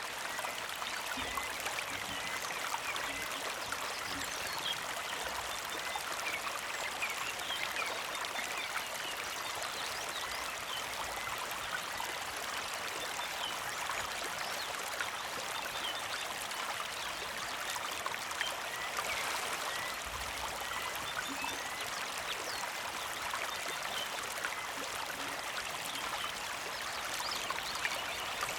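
Small mountain creek flowing steadily, a continuous trickling babble dotted with many little splashing plinks.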